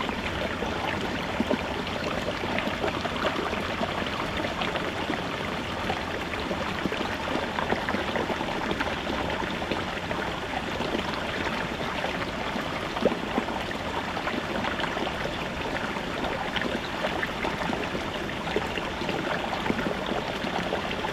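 Small brook babbling over rocks: a steady rush of flowing water with many small splashes and gurgles.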